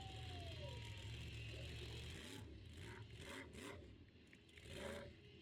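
Faint, low monster truck engine rumble from the arena footage, dying away about two seconds in, leaving only faint scattered sounds.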